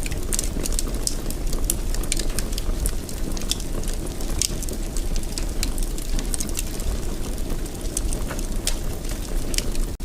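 Wood fire burning in a fireplace: a steady low rumble of flames with frequent sharp, irregular crackles and pops. The sound cuts out for an instant just before the end.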